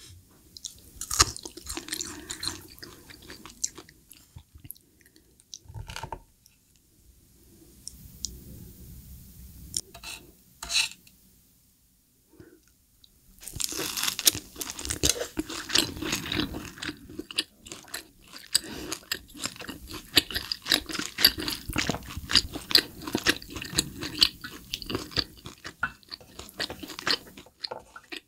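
Close-miked eating sounds: a person chewing with crunching and mouth clicks. After a quieter stretch, from about 13 seconds in, steady chewing of a bite of grilled tomahawk steak.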